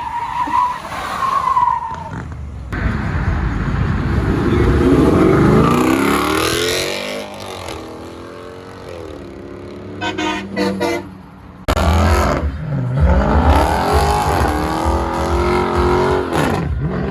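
Car engines revving hard and accelerating, their pitch climbing in several rising sweeps, with a brief tyre squeal at the start.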